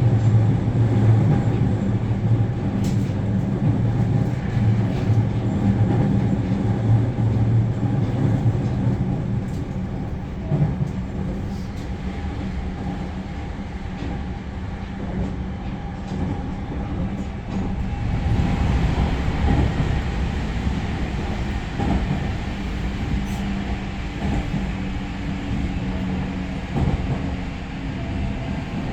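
In-cabin running noise of a JR Central 315 series electric train under way: a steady low hum with wheel-on-rail rumble and a few faint clicks. The rumble and hiss grow louder about two-thirds of the way through.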